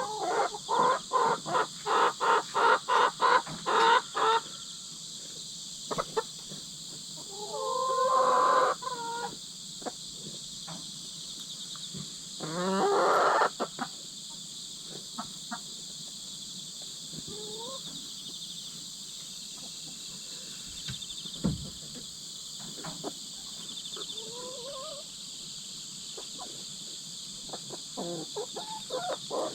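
Hens clucking in a fast, loud run of about three calls a second, then two longer drawn-out squawks, then occasional soft calls. These are the sounds of two newly merged hens sorting out their pecking order. A steady chorus of insects chirps throughout.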